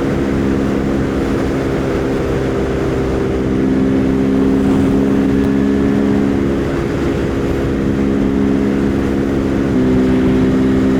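Husqvarna Svartpilen 401's single-cylinder engine running steadily at highway cruising speed, its note stepping slightly in pitch a couple of times. Heavy wind rushes over the rider's microphone throughout.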